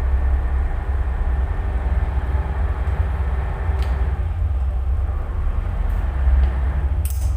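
Tugboat's diesel engine running with a steady low rumble.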